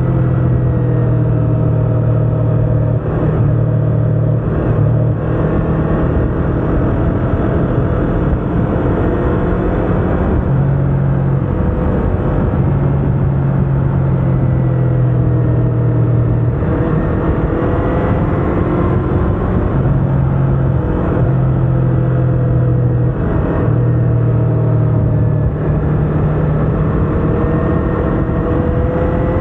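Yamaha R25's 250 cc parallel-twin engine running while riding, its note falling and rising several times as the throttle and speed change.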